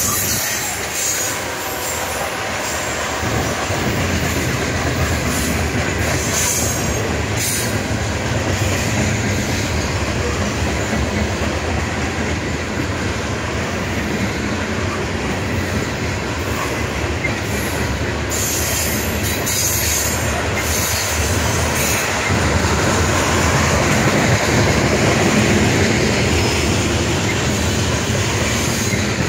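CSX freight train's covered hopper cars rolling past at close range: a steady loud rumble of steel wheels on the rails, with a few sharp clacks scattered through it.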